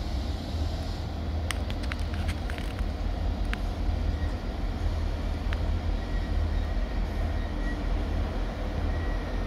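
Steady low rumble of a train at a station, with a few sharp light clicks between about one and a half and three and a half seconds in.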